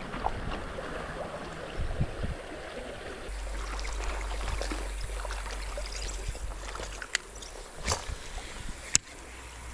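Creek water running and gurgling over shallows, with a few sharp clicks near the end.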